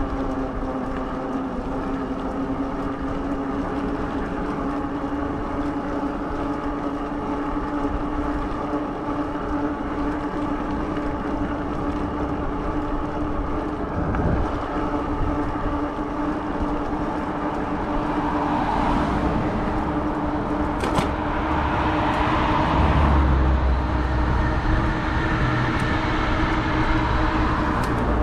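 Fat-tire e-bike's electric motor whining at one steady pitch while riding at a constant speed, over rushing road and wind noise. About two-thirds of the way in, a louder rushing noise swells up.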